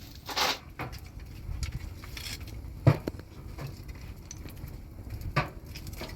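Scattered handling noise: a short scrape near the start, then two sharp knocks about two and a half seconds apart, the first the loudest.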